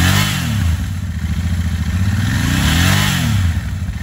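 2022 Royal Enfield Continental GT 650's twin-cylinder engine idling through its megaphone exhausts. It is revved briefly twice, once right at the start and again about three seconds in, each time rising and dropping back to idle.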